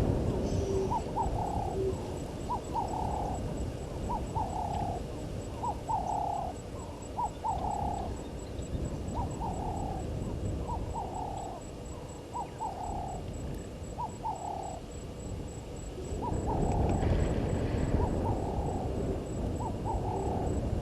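A bird calling a long series of short, evenly repeated notes, stopping about fifteen seconds in and starting again briefly near the end. Behind it, a faint high, regular ticking runs throughout.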